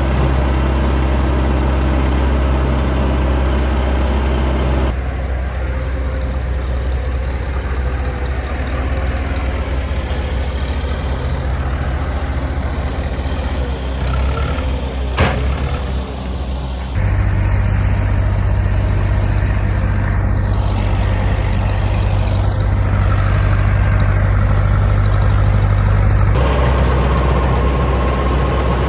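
Fortschritt E514 combine harvester's diesel engine running steadily while at work in the field, heard up close, its tone shifting abruptly a few times. A single sharp click about halfway.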